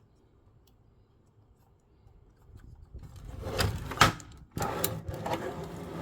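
Handling noises of parts being moved about: quiet at first, then two sharp knocks about four seconds in, followed by a stretch of rattling and scraping.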